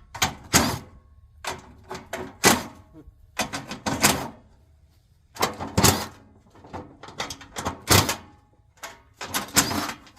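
Hand tools clanking and clicking against the metal parts of a forced-air heater as it is being taken apart, in sharp, irregular knocks every half second to a second.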